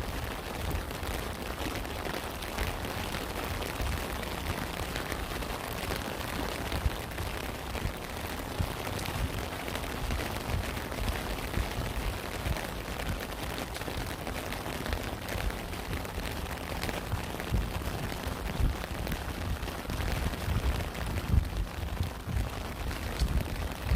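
Steady rain falling, with frequent irregular low thuds and pops of heavy drops striking a surface close by.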